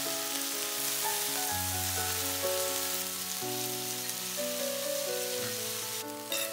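Stir-fry sizzling in a nonstick wok as mustard greens are stirred in, under background music of held notes that change every second or so. A brief clatter near the end.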